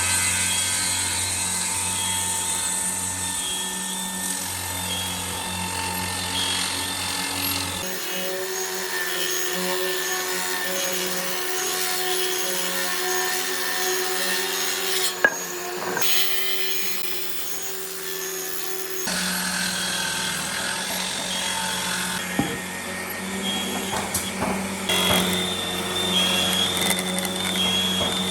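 Woodworking power tools running on wood, a steady motor whine over the noise of cutting, in shots that change abruptly about 8 and 19 seconds in.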